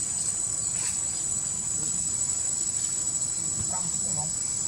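Insects chirring in a steady, high-pitched, unbroken drone.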